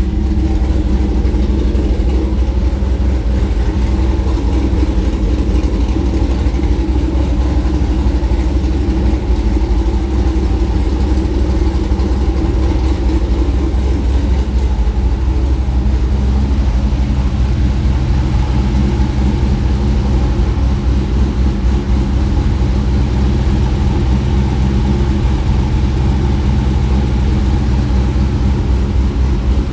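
Freshly cammed fifth-generation Chevrolet Camaro SS V8 idling steadily, with no big revs, running after its first start-up in over a year.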